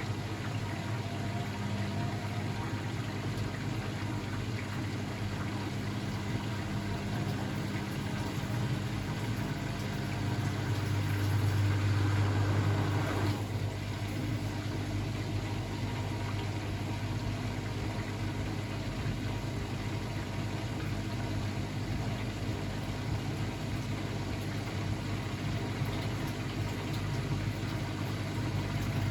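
Blomberg WAF 7442 SL front-loading washing machine running with a steady motor hum. It grows louder for a couple of seconds before the middle, then drops back with a short falling whine.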